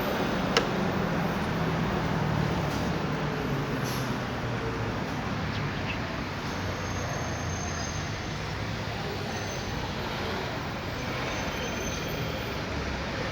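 Street traffic noise with vehicle engines running. A steadier engine hum stands out in the first few seconds, with a sharp click about half a second in.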